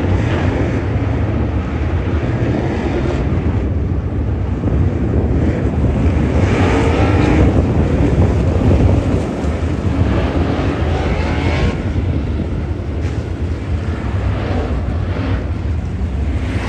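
Race car engines running with a steady low rumble, one swelling louder and rising in pitch about halfway through as a car accelerates or passes. Wind buffets the microphone.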